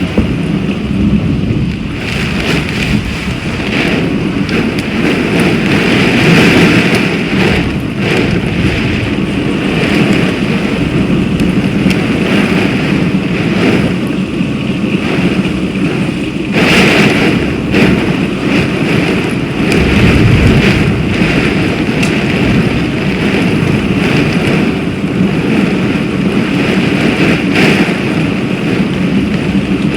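Violent rainstorm: torrential rain pouring down with strong wind, a loud, steady rush with swelling gusts and low rumbles of thunder.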